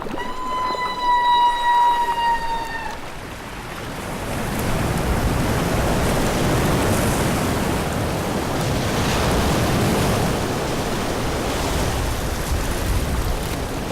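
A humpback whale's feeding call, one high, slightly falling tone held for about three seconds, then a steady rushing hiss of water that builds from about four seconds in.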